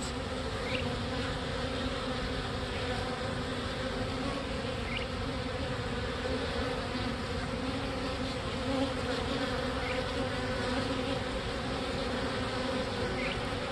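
Honey bee colony in an opened nuc box, many bees buzzing in a steady, even hum; the buzz the colony is giving the beekeeper as she works its frames.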